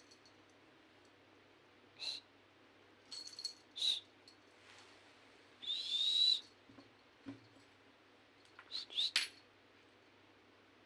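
Kitten mewing: a run of short, high-pitched mews, with the longest about six seconds in and a quick cluster near the end.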